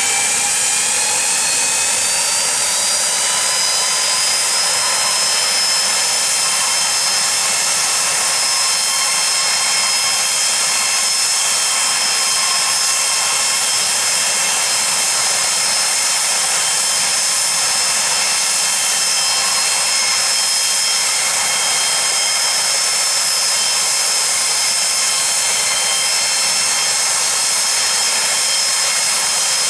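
Pilatus PC-24's Williams FJ44 turbofan whining as it spools up over the first few seconds of engine start, then running steadily at idle with a high whine over a rushing roar.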